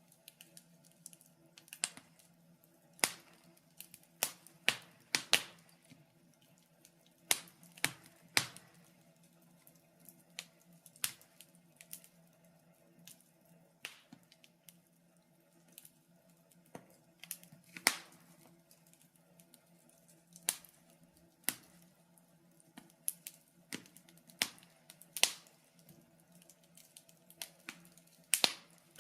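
Wood fire crackling in a fireplace: irregular sharp pops and snaps, one to three every couple of seconds and uneven in strength, over a faint steady low hum.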